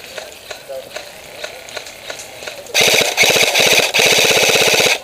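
Airsoft electric gun firing full-auto close by: a rapid stream of shots starting a little past halfway, broken once briefly and then running on. Before it, only faint scattered pops.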